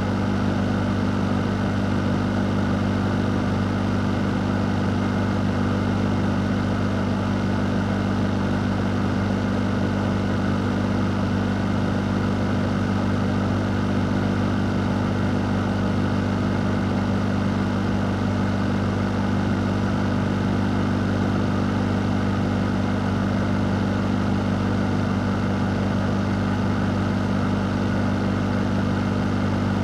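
Fan motor running steadily: a low, even hum under a constant whoosh of moving air, with no change in speed.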